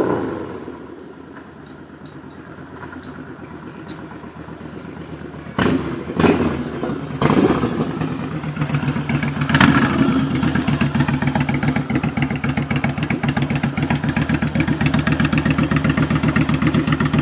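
Yamaha DragStar XVS1100's air-cooled V-twin running through Cobra Speedster Shorts exhaust with dB-killers fitted. It is fairly quiet at first, then about six seconds in turns much louder with several sudden surges, and settles into a loud, steady, evenly pulsing idle.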